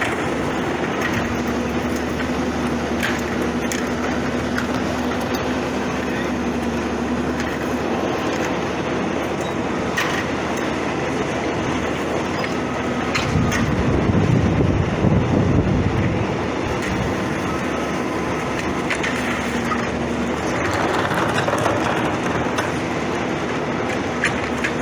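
International garbage truck with a Heil 5000 rear-loader body running steadily, with a few sharp knocks and a louder, deeper surge lasting about three seconds in the middle.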